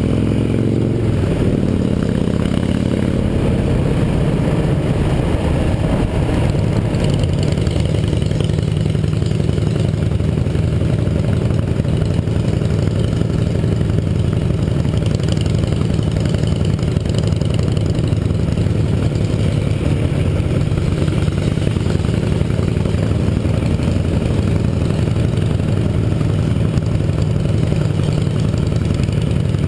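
Yamaha XT 660R's single-cylinder four-stroke engine running under way, its pitch shifting in the first couple of seconds and then holding steady.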